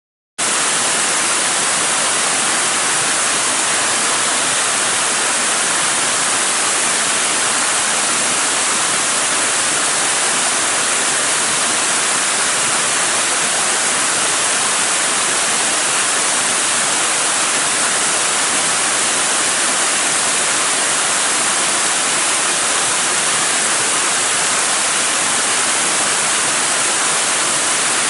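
Waterfall: a steady, unbroken rush of falling water, starting abruptly about half a second in.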